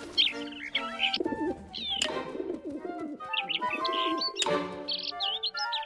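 Cartoon birds cooing and chirping over background music, with two sharp hits about two and a half seconds apart.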